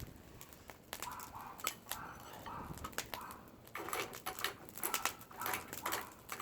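Domestic cats mewing repeatedly, begging for food, with scattered sharp clicks around them.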